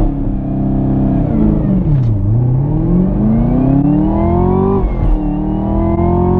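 Supercharged 6.2-litre V8 of a Camaro ZL1 accelerating hard from a launch, heard from inside the cabin. The engine is held at steady revs, dips as the car pulls away about 1.5 to 2 seconds in, then climbs steadily in first gear. About 5 seconds in the revs drop briefly for a flat-foot, no-lift upshift, then climb again in second.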